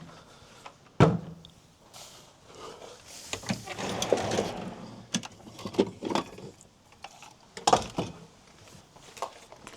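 Clunks, knocks and rattles of gear being handled, with a sharp knock about a second in and a rustling scrape a few seconds later.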